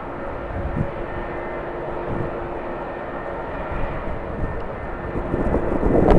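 Jet airliner engines running at an airport, a steady hum with a faint whine in it. Near the end, strong wind gusts on the microphone swell up and start to drown it out.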